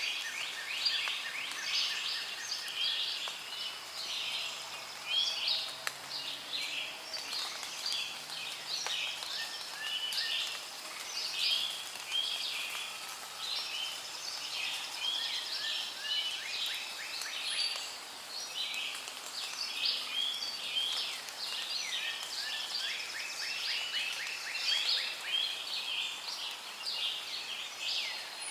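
Rainforest chorus of many birds and insects: dense, overlapping chirps, short sweeping calls and rapid pulsed trills, going on without a break.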